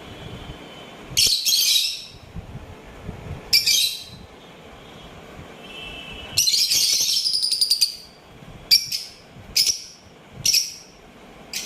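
Small caged parrots calling: a few sharp, shrill chirps, then a burst of rapid chattering about six seconds in, followed by single shrill calls about once a second.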